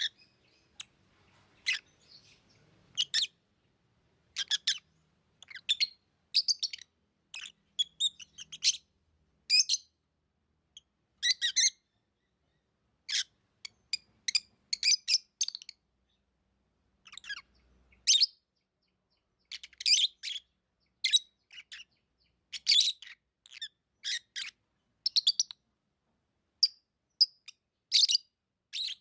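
Pet lovebirds chirping: short, sharp high-pitched chirps in quick clusters, about one cluster a second, with brief silences between.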